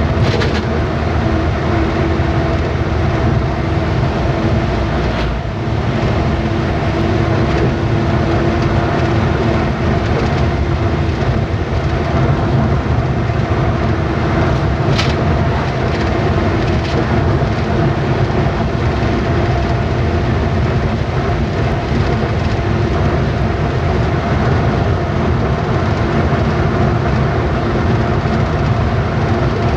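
Truck engine running steadily while driving, with low road rumble. A short dip in the noise comes about five seconds in and a brief sharp click about halfway.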